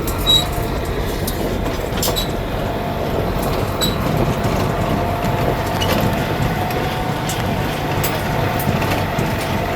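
Tractor engine running steadily as it pulls a ride wagon along, with scattered clicks and rattles from the wagon.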